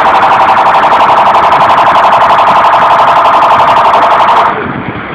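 Car alarm sounding: a loud, steady, rapidly pulsing electronic tone that cuts off suddenly about four and a half seconds in.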